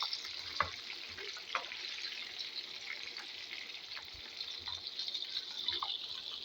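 Chicken pieces deep frying in hot oil: a steady sizzling hiss with scattered small pops and crackles.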